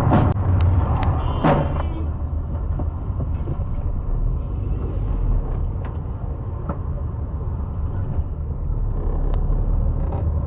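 Low, steady rumble of a vehicle driving, engine and road noise, with a few sharp clicks and a short high-pitched sound in the first two seconds.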